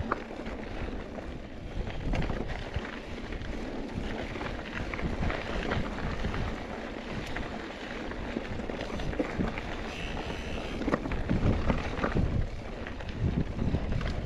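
Mountain bike rolling fast down a rocky desert trail: tyres crunching over rock and the bike rattling with many small knocks over the bumps, with wind on the microphone.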